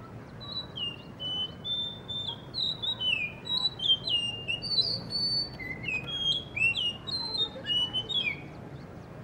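Blue whistling thrush singing: a long run of quick, clear whistled notes, each sliding up or down in pitch. The song starts about half a second in and stops shortly before the end.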